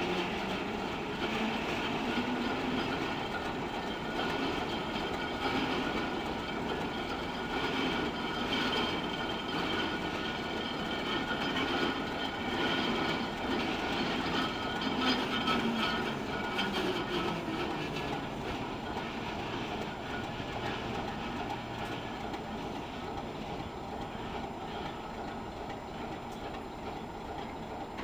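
Class 751 diesel locomotive moving slowly, its diesel engine running with a pitch that rises and falls, wheels clicking over rail joints with some squeal. It fades gradually over the last third.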